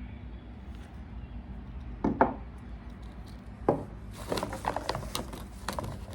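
Small parts from a carburetor rebuild kit being handled: a knock about two seconds in, another near four seconds, then a quick run of light clicks and rattles lasting about two seconds.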